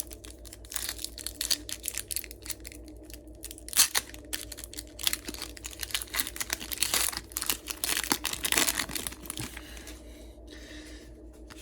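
Foil booster pack wrapper crinkling and tearing as it is opened, with trading cards being handled: irregular crackles and rustles, a sharper tear about four seconds in.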